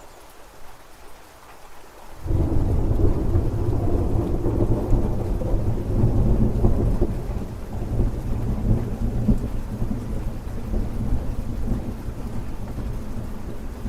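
Steady rain with a loud, low rolling thunder rumble that breaks in suddenly about two seconds in and slowly fades.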